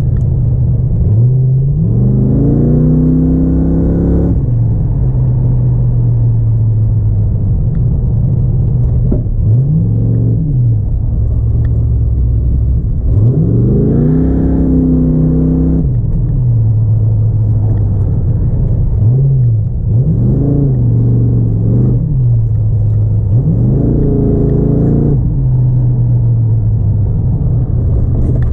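Car engine under hard throttle on an autocross course, repeatedly revving up and easing off: about six rises in pitch, each a couple of seconds long, with steadier running in between.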